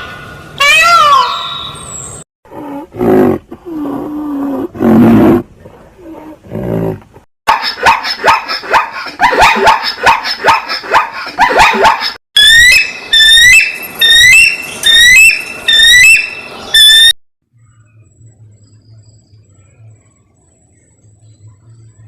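A run of different animal calls: sliding pitched calls, then low growls, then rapid repeated clicking calls, then a string of short rising calls, followed by near silence with a faint hum for the last few seconds.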